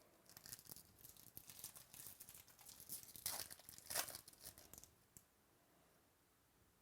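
Foil trading-card pack being torn open and crinkled, a burst of crackly tearing and rustling that dies away about five seconds in.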